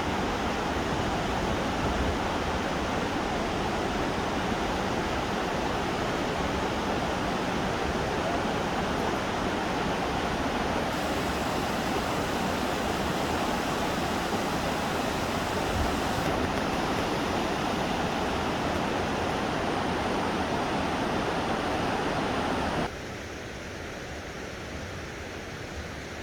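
Steady rushing of a stream's flowing water. Near the end it drops abruptly to a quieter rush.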